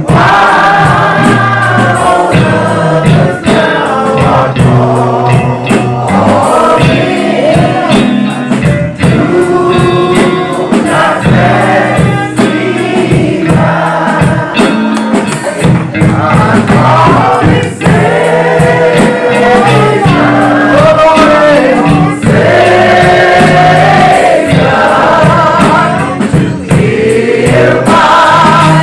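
Church choir singing a gospel song, loud and continuous, with steady low accompanying notes underneath.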